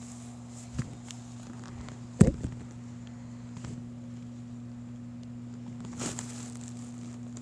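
Scattered knocks and taps of handling or footsteps, with one loud thump about two seconds in and a short rustle near the end, over a steady low hum.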